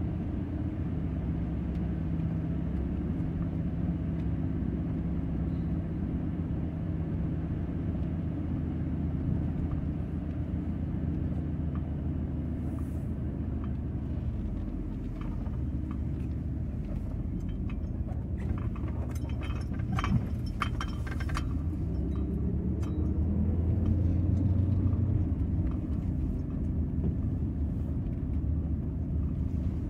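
A van's engine running with low road rumble, as when driving. Its note shifts, then rises and gets louder about three-quarters of the way through. A few clicks or rattles come shortly before that.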